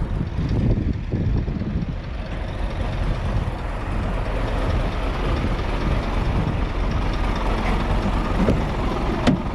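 Scania truck's diesel engine idling steadily, with a single sharp click near the end.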